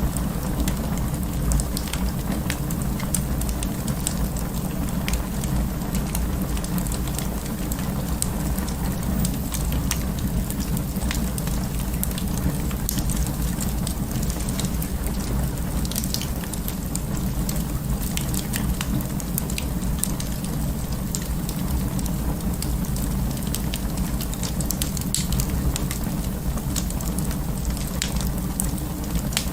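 Wood fire in an open fireplace crackling, with scattered sharp pops over a steady low rumble of the flames.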